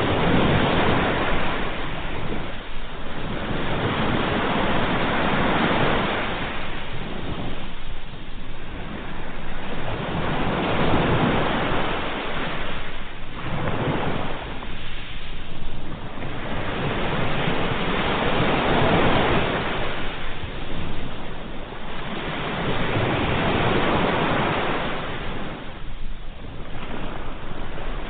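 Ocean waves breaking on a shore, a steady wash of surf that swells and recedes in surges every few seconds.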